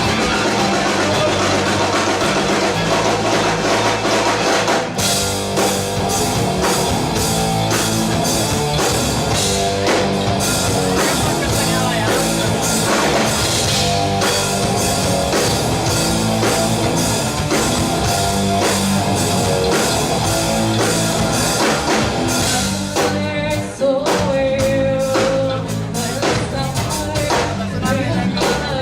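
Rock band playing live: guitars over a bass line, with the full drum kit coming in about five seconds in. The band drops back briefly a little over twenty seconds in, then carries on.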